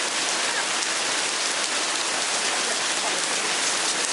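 Heavy rain pouring down, a steady dense hiss of drops striking the ground and surfaces.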